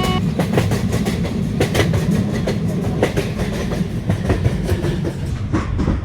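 Train passing at speed: a loud steady rumble with wheels clattering over rail joints in a run of irregular clacks.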